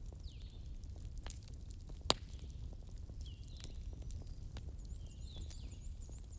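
Campfire crackling, with scattered sharp pops over a low steady rumble, the loudest pop about two seconds in. Birds chirp in the background, with a quick run of high repeated notes near the end.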